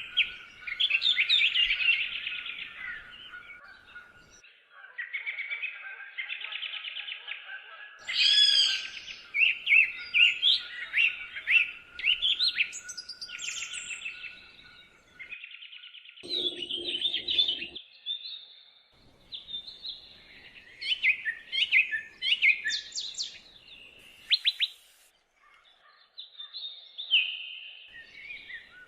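Several songbirds singing at once in woodland: overlapping whistled phrases, trills and chirps, one after another with short gaps. A brief lower call comes about halfway through.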